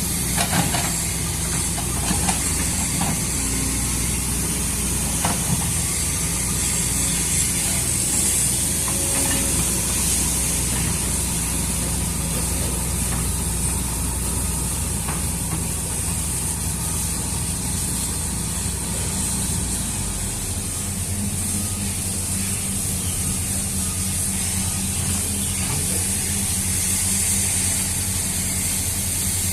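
Excavator's diesel engine running steadily with a constant high hiss over it; the engine note changes about two-thirds of the way through.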